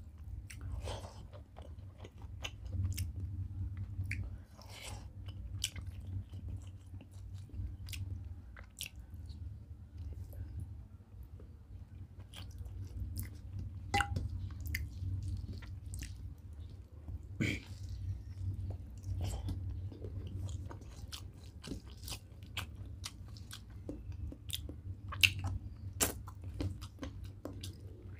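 Chewing and mouth sounds of a person eating rice and chicken curry by hand, with many short wet clicks and smacks scattered throughout. Fingers mixing rice and curry on a steel plate add to the sound.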